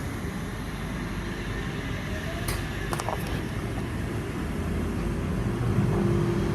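Oscar (H set) electric multiple-unit train pulling out of the platform: a steady low rumble of wheels and motors with a hum that grows a little louder near the end. A couple of sharp clicks come about two and a half and three seconds in.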